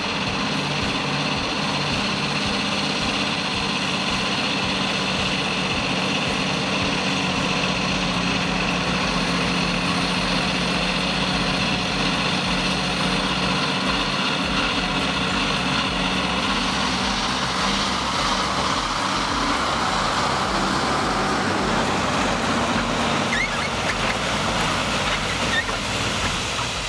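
Off-road vehicle engine running steadily under load, with a steady low hum; the sound grows noisier about two-thirds of the way through.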